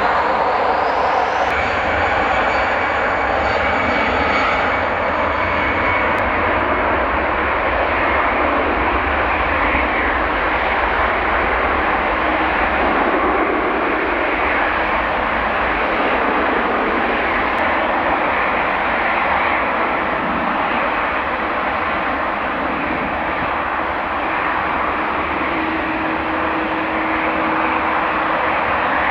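Airliner engines running loud and steady, with a thin high whine over the noise in the first few seconds.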